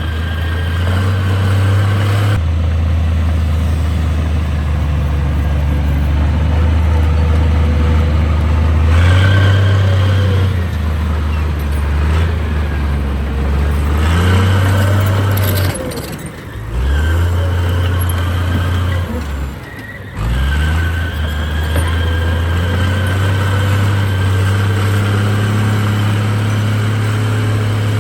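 Heavy diesel engine of earthmoving equipment working under load, its speed stepping up and down. Twice in the second half the engine briefly slows and then picks up again.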